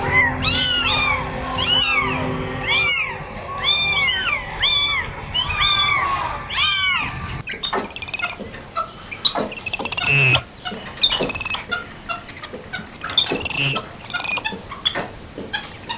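Cats meowing over and over, short rising-then-falling calls overlapping one another. About halfway through they give way to a run of short, choppy squawks and clicks from poultry.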